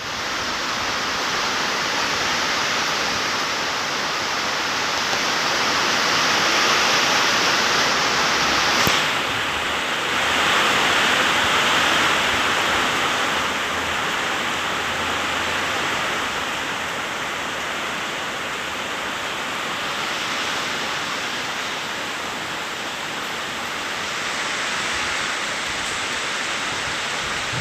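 Heavy rain with gusting wind ahead of a tropical cyclone's landfall: a steady, loud rushing hiss that swells and eases with the gusts. There is a brief click about nine seconds in.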